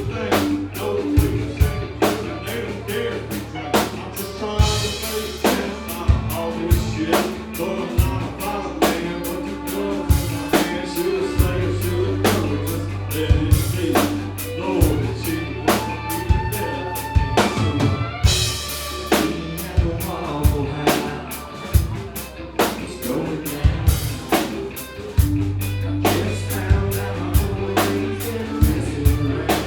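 Live band playing a song with a steady, heavy drum beat and bass.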